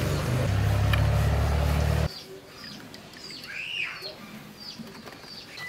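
A loud, steady, low hum that cuts off abruptly about two seconds in, followed by birds chirping: several short, high, falling chirps and one arching call.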